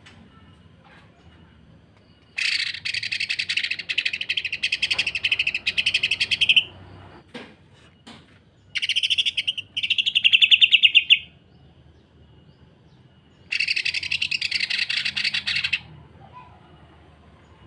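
Cucak ijo (green leafbird) singing its harsh, rapid rattling 'sewing machine' trill (kasaran rapat mesin jahit). The song comes in three bursts of two to four seconds each, the middle one breaking briefly partway through.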